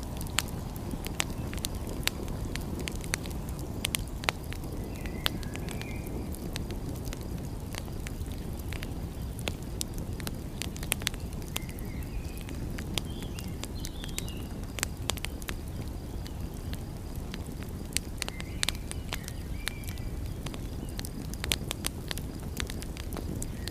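Wood fire crackling, with frequent sharp pops over a steady low rumble. Faint high chirps come in a few times.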